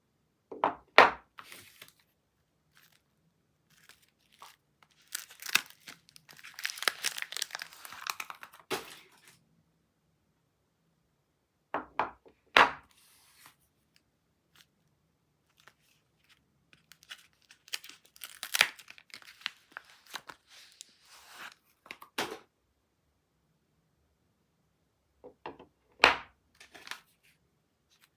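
Soap bar packaging being unwrapped: the wrapper tears and crinkles in two long stretches, with a few sharp taps and knocks in between.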